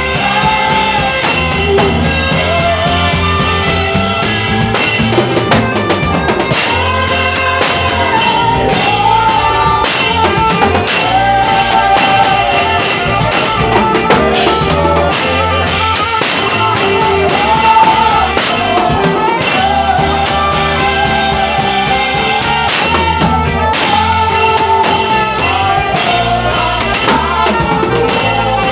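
Gospel instrumental music: a saxophone plays a bending melody over a drum kit and bass.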